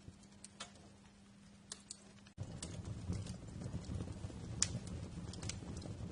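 Wood fire crackling, with scattered sharp pops and snaps. About two seconds in, the sound cuts out for an instant and comes back louder, with a low rumble of flames under the crackle.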